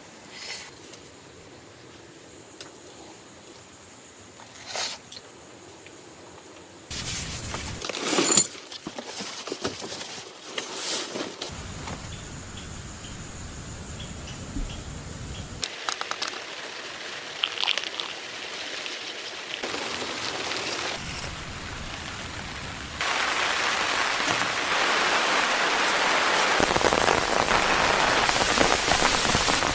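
Rain falling, with scattered drops and small knocks. It shifts abruptly several times and becomes a steady, louder, heavy downpour in the last third.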